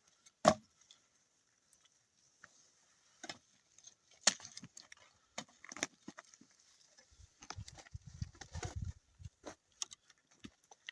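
Scattered knocks and clicks, with one sharp loud knock about half a second in and a cluster of duller thuds near the end, over a faint steady hiss.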